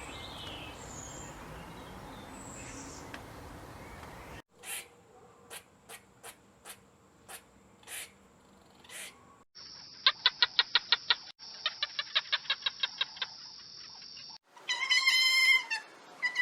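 A series of short animal sound clips, mostly bird-like: a soft rustling hiss, then a string of separate sharp chirps, then two runs of rapid trilled pulses, and a pitched call near the end.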